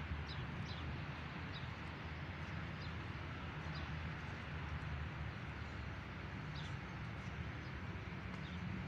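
Small birds chirping now and then, short high chirps over a steady low outdoor rumble.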